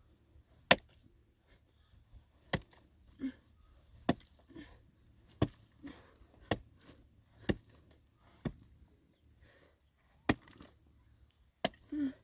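A series of sharp knocks, about a dozen, irregularly spaced roughly a second apart.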